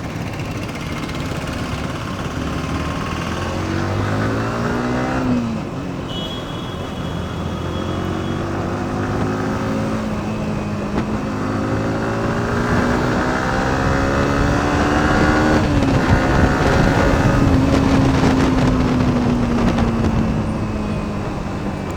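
Yamaha R15 V4's 155 cc single-cylinder engine accelerating on the road. Its pitch climbs, drops at a gear change about five seconds in, and climbs again for about ten seconds. It drops again at the next shift and then slowly falls as the bike eases off, over a steady road and wind rush.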